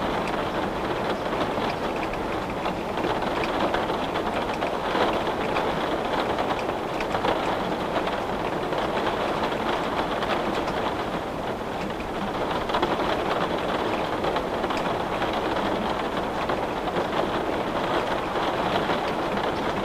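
Steady rain on a window, an even hiss dotted with many small drop ticks.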